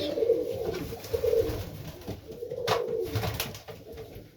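Serbian Highflyer pigeons cooing, several wavering coos one after another, with a single sharp click about two and a half seconds in.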